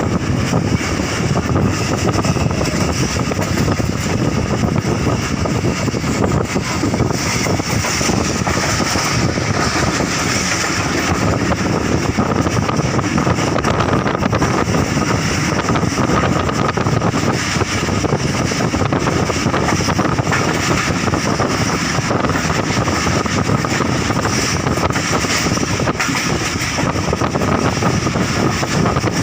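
Passenger train in motion: a steady, loud rumble and rushing noise of the running train with wind on the microphone.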